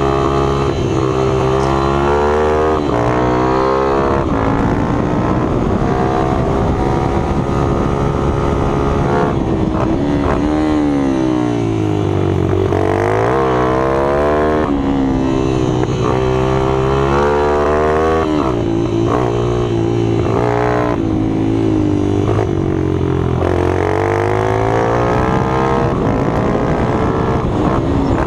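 Small minibike engines running hard, their pitch rising and falling over and over as the throttle is opened and eased.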